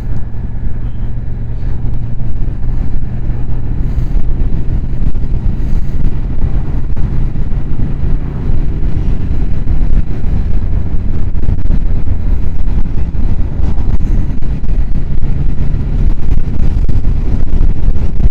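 Motorcycle engine running steadily while riding at road speed, with a dense low rumble under it.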